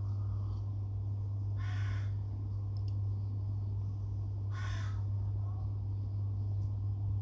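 A bird calling twice, about three seconds apart, over a steady low hum.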